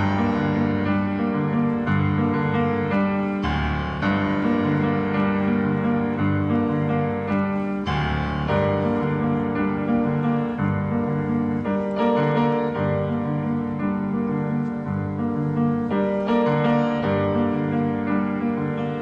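Piano music: repeating, rhythmic note patterns in a minimalist style, played at an even level throughout.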